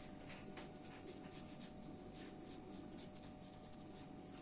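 Faint scratching strokes of a colouring tool on paper, a few strokes a second, as an apple is coloured in red.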